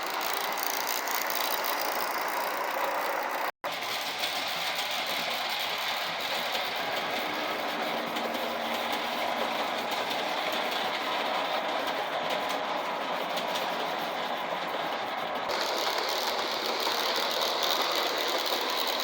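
Vintage Acme O scale B&O P5 Pacific model steam locomotive running on its track with passenger cars: a steady whir of the motor and gears with clatter from the wheels. It cuts out for an instant about three and a half seconds in and grows brighter near the end.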